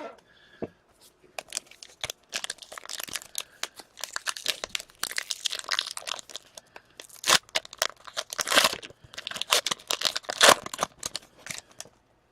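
Hockey card pack wrapper being torn open and crinkled by hand, a dense run of ripping and crackling that is loudest near the end.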